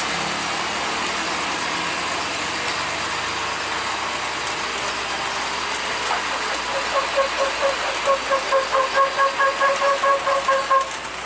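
Steady rain and traffic noise. About halfway through, a rapidly pulsing high tone joins in at about five beeps a second for roughly four seconds, then cuts off, the kind of warning beeper or pulsed horn fitted to trucks.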